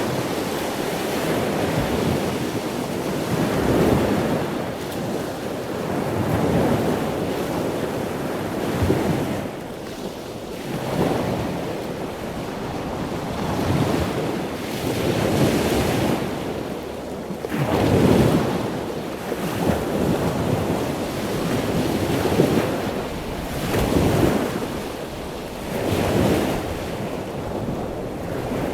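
Loud rushing noise with no tones in it, swelling and fading every two to three seconds.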